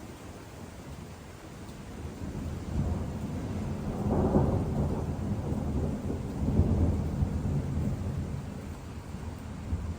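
Thunder rolling: a deep rumble that builds about two seconds in, peaks around the middle and slowly dies away, over a steady hiss of rain.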